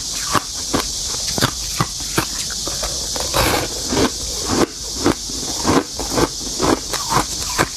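Close-up crunching of freezer frost being bitten and chewed: many short, irregular crunches, about two or three a second, over a steady high hiss.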